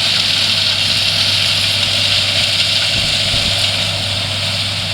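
John Deere 7530 tractor running steadily with a power harrow drill, a constant engine hum under an even hiss.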